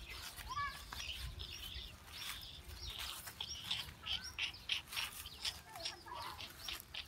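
Small birds chirping: short rising and falling calls mixed with rapid sharp chirps, busiest about halfway through.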